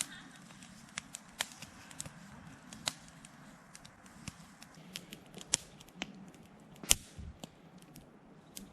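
Wood fire crackling, with irregular sharp pops over a faint steady hiss; the loudest pop comes about seven seconds in.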